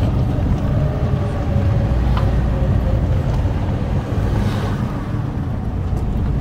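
Car driving on a mountain road, heard from inside the cabin: a steady low rumble of engine and tyres, with a faint whine that sags slightly in pitch.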